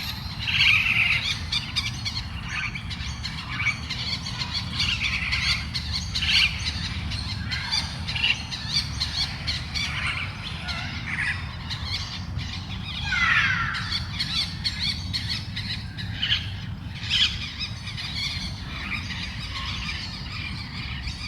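Parrot chirping and squawking in short, irregular calls, with one longer call about two-thirds of the way through that slides down in pitch. A steady low rumble runs underneath.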